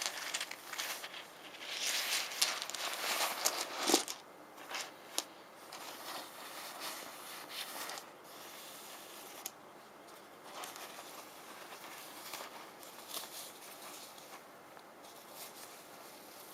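Rune stones being handled: scratchy rustling and small clicks for about four seconds, a sharp click about four seconds in, then quieter scattered clicks and scrapes.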